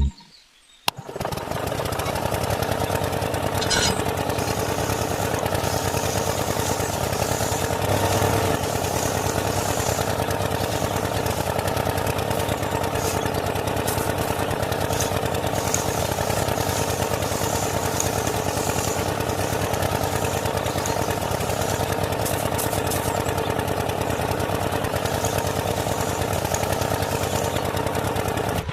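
A small motor running steadily with an even buzz, starting about a second in and stopping just before the end.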